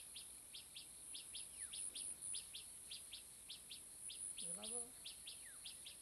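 A bird calling over and over with short, high chirps, often in pairs, about three a second, over a steady high-pitched insect drone.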